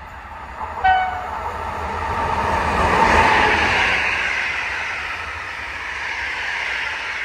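A passing train gives a short single-note horn blast about a second in, then goes by, its running noise swelling to a peak and slowly fading.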